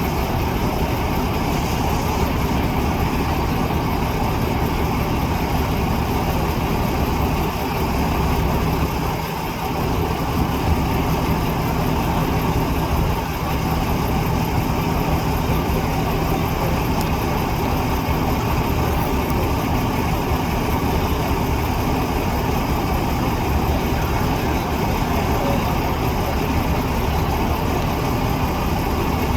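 Truck engine running steadily at low revs, a constant low hum that dips briefly about nine seconds in.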